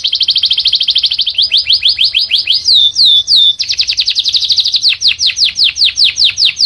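Domestic canary singing loudly in fast trills of repeated high notes. A few downward-sliding notes break in about three seconds in, then a rapid trill resumes and slows into separate falling notes near the end.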